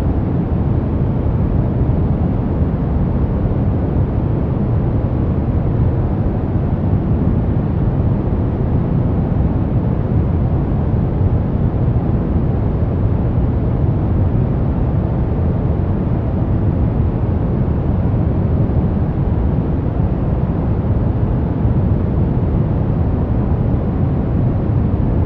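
Steady brown noise: an even, deep rushing hiss, strongest in the bass and with little treble, that does not change.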